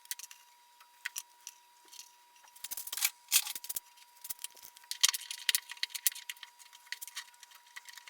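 Small metal clicks and clinks of ball bearings and a bolt being handled and fitted, scattered and sharp, growing busier a few seconds in. A faint steady high tone runs underneath.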